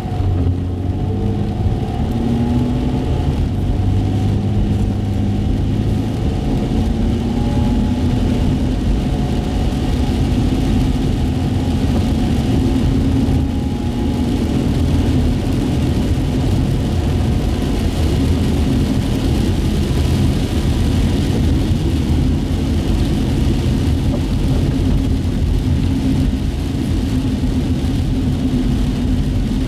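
Car engine running and tyres on wet pavement, heard from inside the cabin while driving: a steady low rumble, with the engine note drifting slightly up and down and a constant hiss from the wet road.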